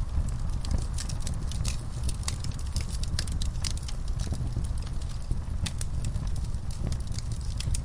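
Wood fire in a fireplace crackling: quick, irregular sharp pops and snaps over a steady low rumble of the flames.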